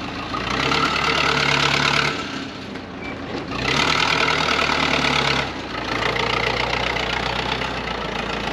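Engine running, twice rising in speed and load for about one and a half to two seconds each, then settling to steadier running.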